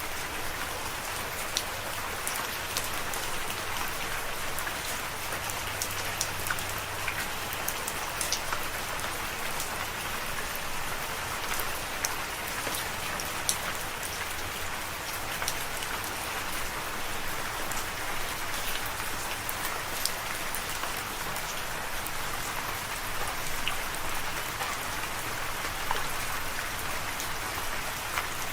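Steady rainfall, with scattered individual drops ticking sharply on a nearby surface.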